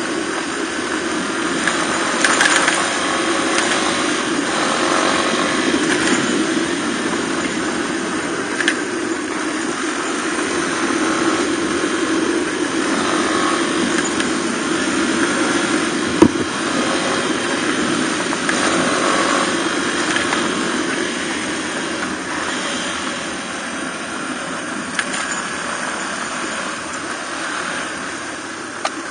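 Suzuki DR250R single-cylinder four-stroke dual-sport motorcycle engine running steadily while riding on a forest road, with a few sharp knocks, the loudest about halfway through.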